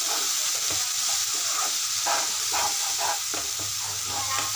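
Onion-tomato masala with chilli powder sizzling in oil in a non-stick kadai while a spoon stirs and scrapes it round the pan: a steady frying hiss under repeated scraping strokes.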